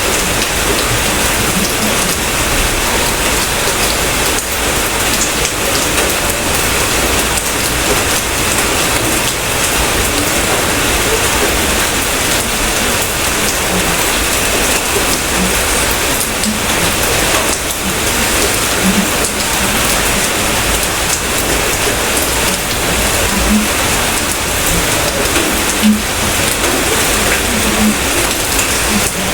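Steady, heavy rain falling: an even, dense hiss that does not let up.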